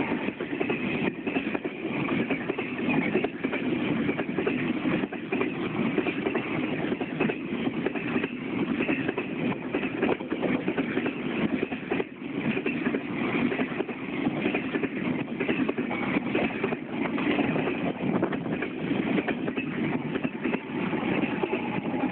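Container freight train hauled by an EF200 electric locomotive rolling past, a steady rumble with wheels clicking irregularly over the rail joints.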